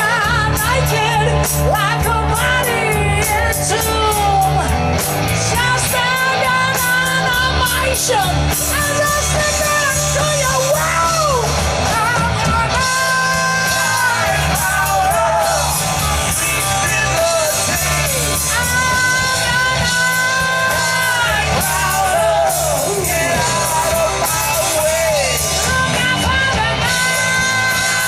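Live rock band playing loudly, with sung and yelled vocals over electric guitar and drums, the voice or lead holding long bending notes.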